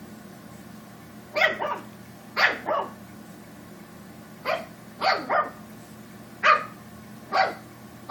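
Pug puppy giving short, sharp barks, about nine, singly and in quick pairs: play-barking to get a cat to play with it.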